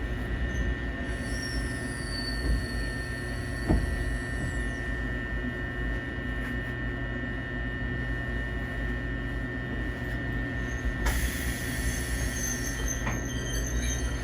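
Eizan Electric Railway train running with a steady low rumble. Its wheels squeal thinly and fall in pitch for a few seconds, with two sharp knocks. A loud hiss starts near the end.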